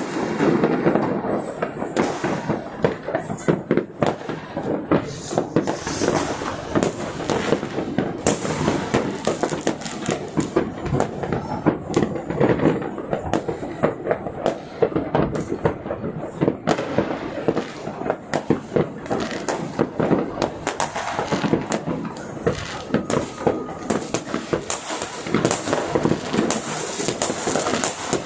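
Street fireworks and firecrackers going off without a break, a dense run of sharp bangs and crackles, many in quick succession.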